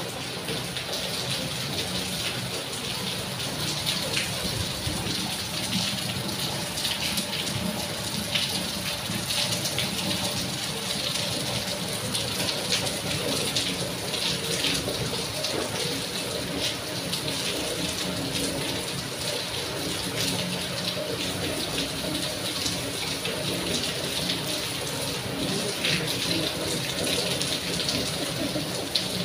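Steady rain falling and splashing on paving and plants, with many close drops ticking through the hiss.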